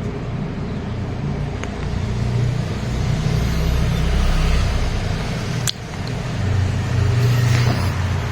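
Road vehicle engine rumble, as of traffic passing close by, swelling twice, with a single sharp click between the swells.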